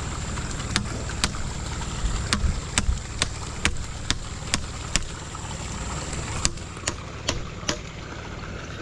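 A series of sharp clicks, roughly two a second, from about a second in until near the end, over a steady low rumble.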